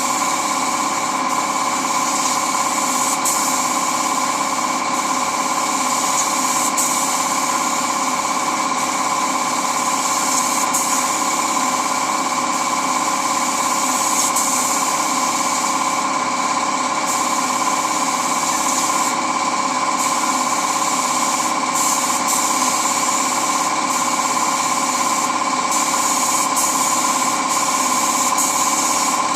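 A small electric motor running steadily with a constant whine.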